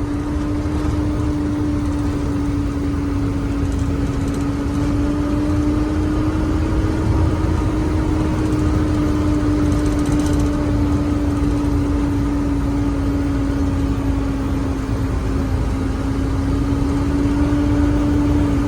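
Truck on the move, heard from inside its cab: steady engine and road noise with a hum that drifts slightly up and down in pitch.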